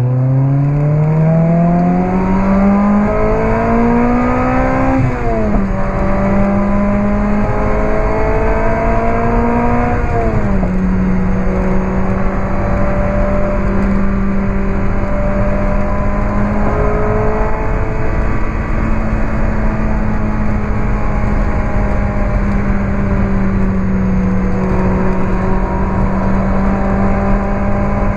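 Lotus Elise 111R's Toyota 2ZZ-GE four-cylinder, breathing through a Larini Stage 2 exhaust and heard from inside the car, accelerating hard. The revs climb, fall at an upshift about five seconds in, climb again to a second upshift about ten seconds in, then hold steady and high for the rest, over the rush of road and wind noise.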